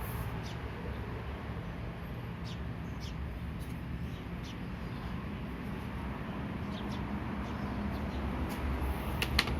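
Small birds chirping in short, scattered calls over a steady low background hum, with a couple of sharp clicks near the end.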